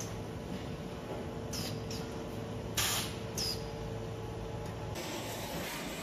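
Leaf spring production line machinery humming steadily, with several short hissing bursts; the loudest comes about three seconds in.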